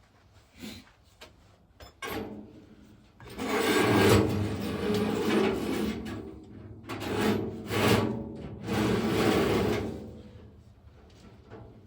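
Drilled metal water pipe being worked into place: a few light knocks, then three long scraping, rubbing passes with a ringing note in them.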